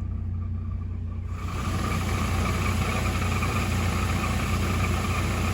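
Chevy S-10 idling, stopped in reverse with the brake held. About a second in, a steady hissing noise with a faint tone in it comes on over the engine hum and holds. The owner puts it down to the transmission: it appears only when the truck is stopped in gear and goes away in park or neutral.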